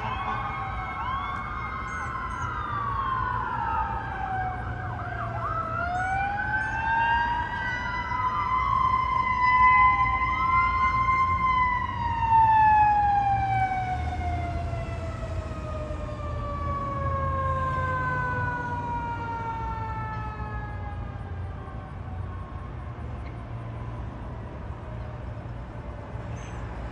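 Fire truck siren wailing, its pitch sweeping up and down with overlapping glides, loudest about ten seconds in. It then settles into one long, slowly falling tone that fades away as the truck passes and moves off, over a low steady rumble.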